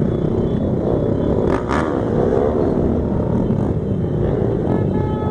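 Several motorcycle engines running together, their pitch wavering with light revving. A horn-like tone starts sounding near the end.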